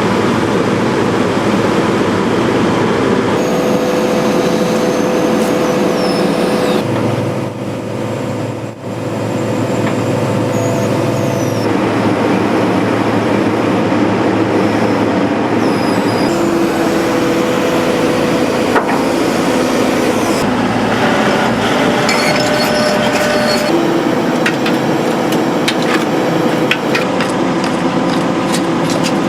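Hydraulic excavator's diesel engine running under working load, its pitch shifting several times as the hydraulics are worked. Short high-pitched squeals come through now and then, and a run of light knocks sounds near the end.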